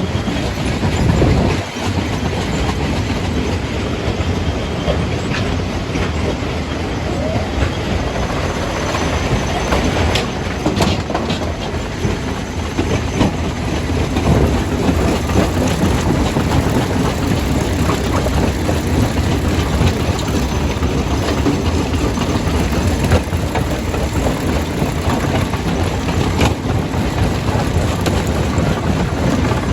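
Jaw crusher crushing rock: a continuous rattling clatter of stone and machinery with many sharp knocks mixed in.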